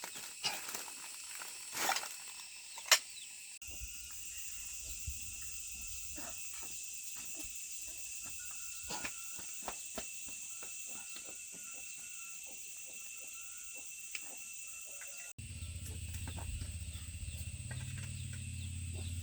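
Steady high-pitched insect drone with scattered light clicks and knocks, including one sharp click about three seconds in; a low rumble comes in near the end.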